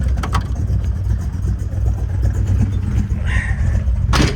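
1968 Camaro's 327 small-block V8 idling with a steady low rumble, firing on all eight cylinders. A click comes just after the start and a sharp knock near the end.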